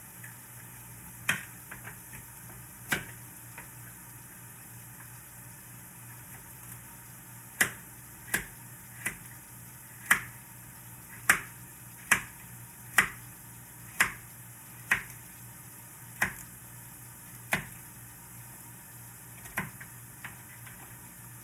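Sharp knocks of a kitchen utensil, about fifteen in all, coming irregularly at first and then roughly once a second through the middle stretch, over a faint steady hiss.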